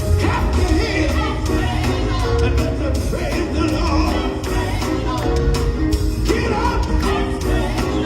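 Live gospel quartet music: a band with a heavy, steady bass and sharp percussive hits playing under sung voices.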